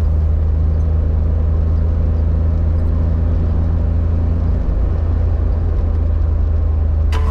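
Honda Beat's 656 cc three-cylinder engine running with a steady low drone.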